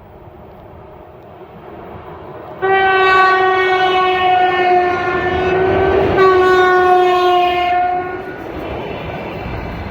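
Russian Railways Ermak-class electric locomotive sounding its horn: a loud, steady chord-like blast starting about two and a half seconds in, briefly broken about six seconds in, then held again for nearly two more seconds, over the growing rumble of the approaching freight train.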